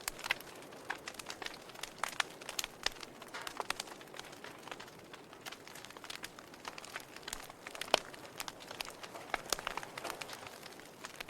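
Logs burning in a fireplace, crackling with irregular sharp pops over a soft hiss; one louder pop about eight seconds in.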